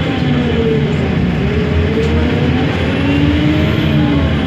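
Diesel engine of a Mercedes-Benz OMC-1421 city bus running loud and steady, its pitch drifting up and easing back a little.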